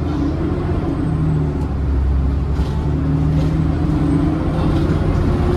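Double-decker bus engine and drivetrain running while under way: a steady low drone with a whine that shifts in pitch every second or so.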